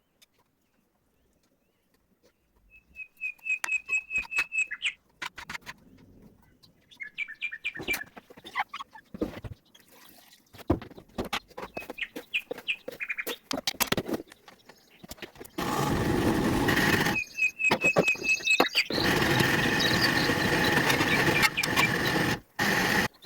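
Small birds chirping in short trains of quick repeated notes, over scattered kitchen clinks and knocks. Near the end a loud steady rushing noise comes on twice, the second time for about four seconds, and it is the loudest sound.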